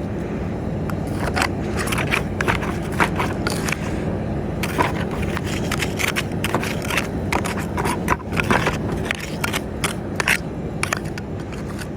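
A vehicle's engine and radiator cooling fans running steadily after the engine overheated pushing deep snow, with many irregular crunching and scraping sounds of snow over them from about a second in until near the end.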